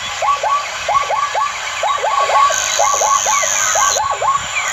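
Birds calling: a rapid, continuous series of short calls, each sweeping up and dropping back, several birds overlapping, with fainter falling chirps higher above them.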